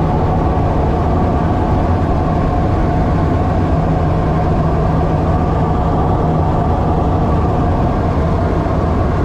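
Twin turboprop engines of a Let L-410 Turbolet running steadily: a loud, even drone with constant humming tones that do not change in pitch.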